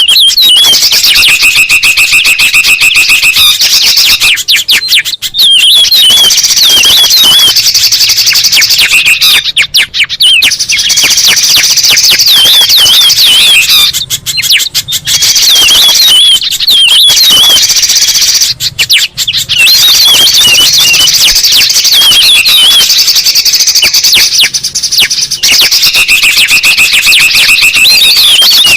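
Loud lure recording of several songbirds calling at once, a dense jumble of chirps, fast trills and wavering whistles. It repeats in a loop with short breaks every few seconds.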